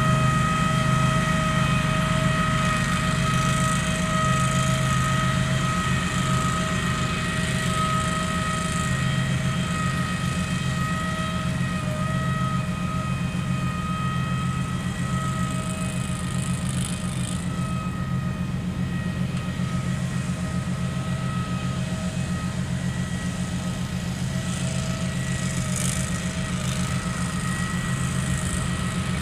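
Case 446 garden tractor engine running steadily under load, a constant low drone with a steady high whine over it.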